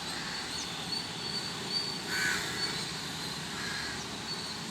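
A crow cawing once about two seconds in, with a fainter call a second and a half later, over a steady high insect trill.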